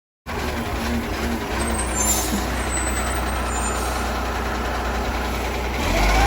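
Diesel garbage truck running steadily, with a faint high squeal about two seconds in; near the end the engine gets louder and its pitch rises as the truck pulls away.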